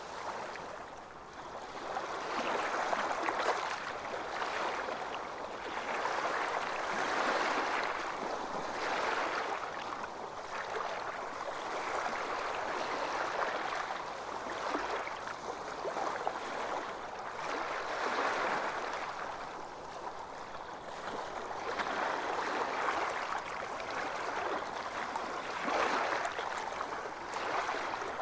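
Sea waves washing ashore, a continuous hiss of water that swells and fades every few seconds.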